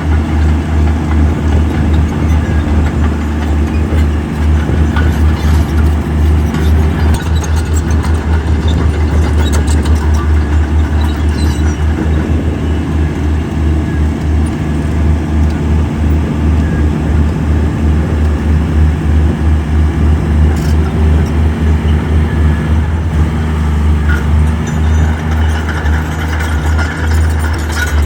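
Heavy diesel engine of earthmoving machinery running steadily, with a deep pulsing throb throughout.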